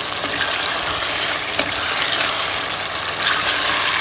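Chicken pieces sizzling as they brown in oil with onion, tomato and masala in a pot, turned with a wooden spoon: a steady frying hiss.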